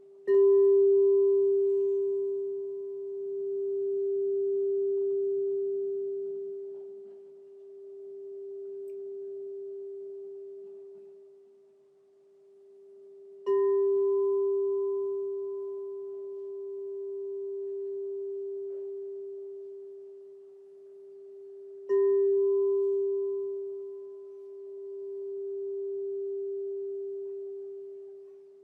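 Crystal singing bowl struck three times, each strike ringing on as a steady pure tone with a faint higher overtone. The ring swells and fades in slow waves as it decays.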